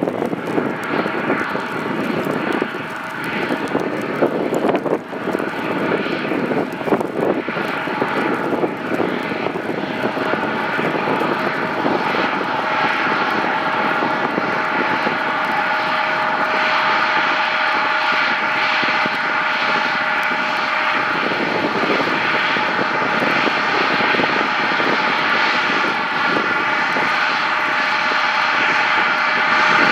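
Embraer 175 jet's twin turbofan engines on landing approach: a steady whine that grows slowly louder as the plane nears. Gusty wind buffets the microphone in the first several seconds.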